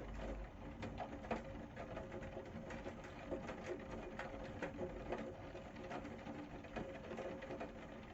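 Rain falling, with many irregular drops ticking on a hard surface, over a faint steady hum.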